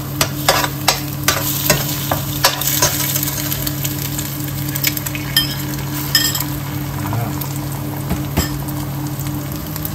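Eggs and garlic sizzling in hot oil in a wok, with a metal spoon scraping and tapping against the pan, most often in the first few seconds. A steady low hum runs underneath.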